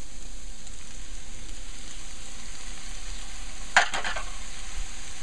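Saltfish, onion and peppers frying in a pan with a steady sizzle. About four seconds in there is a short, louder clatter as the tomato wedges are tipped in.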